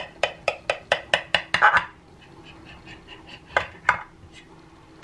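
Knife cutting through a freshly baked cake in its baking pan, the blade clicking against the pan: a quick run of light clicks for about two seconds, then two louder knocks a little after halfway.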